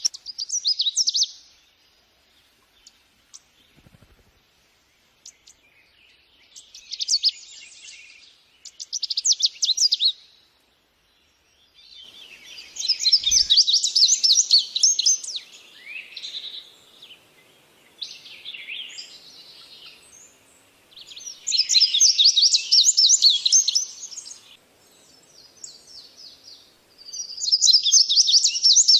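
Birds singing: phrases of fast, high twittering notes a second or two long, repeating every few seconds, with quieter calls in between.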